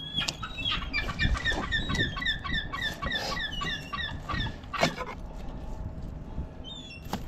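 A bird calling in a rapid series of short, downward-slurred chirps, about three a second, for the first three and a half seconds. A knock about five seconds in and a louder sharp knock at the very end, over the scrape and handling of fish being filleted on a plastic cutting board.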